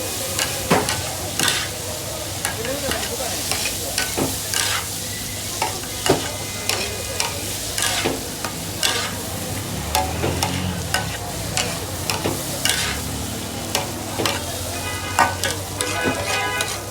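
Chicken chaap frying in hot oil on a flat pan, sizzling steadily, with frequent sharp clicks and knocks throughout.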